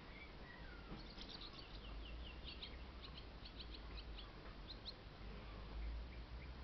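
Small birds chirping outdoors in quick runs of short, high notes, from about a second in to nearly five seconds, over a low steady rumble.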